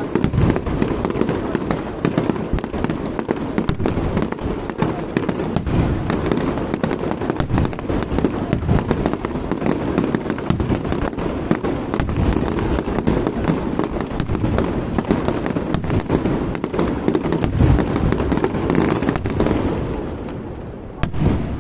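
Fireworks display: a dense, continuous barrage of overlapping shell bursts and crackle over a heavy rumble, easing off near the end.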